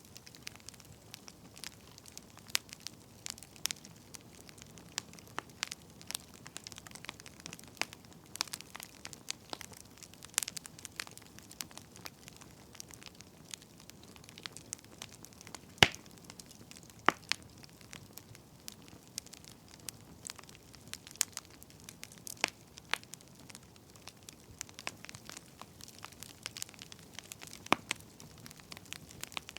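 Wood fire crackling: irregular snaps and pops over a faint hiss, with one sharper pop about halfway through.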